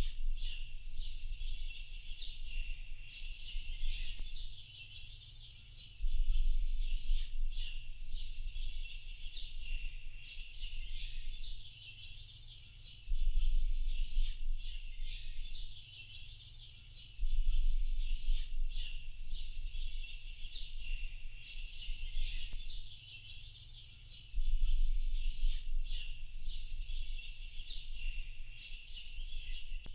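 A dense chorus of small birds chirping and twittering without a break. A low rumble swells up and fades every five to seven seconds underneath it.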